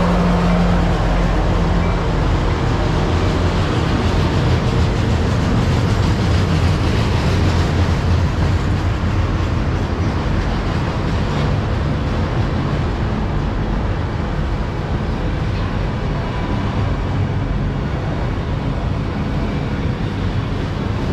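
Freight train of enclosed autorack cars rolling slowly past: a steady rumble of wheels on the rails. A lower engine hum from the departing locomotive fades out over the first couple of seconds.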